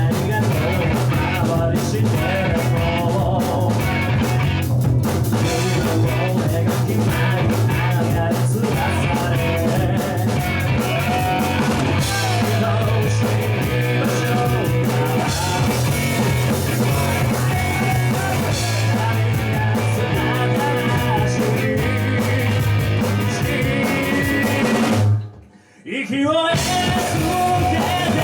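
Rock band playing with a prominent drum kit, snare and rimshots over a steady bass line. About 25 seconds in, the band stops dead for about a second, then comes back in.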